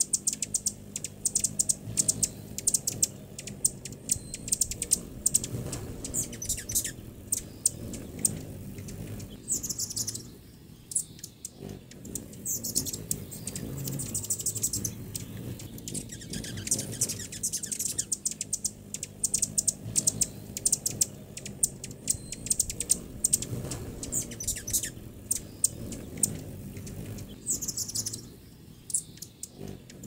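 Small birds chirping with many short, sharp chip notes, coming thick and fast at times with a couple of brief lulls, over a steady low background noise.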